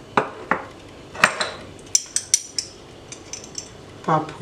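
Spoon and seasoning containers knocking and clinking against a bowl as seasonings are added. A few solid knocks come first, then a quick run of light, high clinks about two seconds in.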